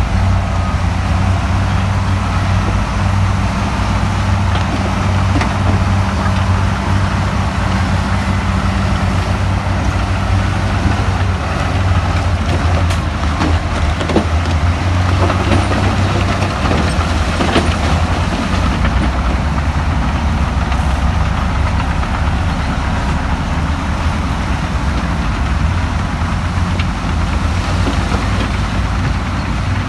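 Heavy earthmoving machine's diesel engine running steadily with a deep hum, with a few knocks and clatters around the middle.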